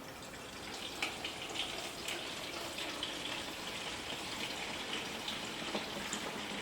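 Water being poured carefully into the top-fill basin of a TEBILD 9 L ultrasonic cool-mist humidifier, draining down into the tank below. The pouring picks up about a second in and then runs steadily.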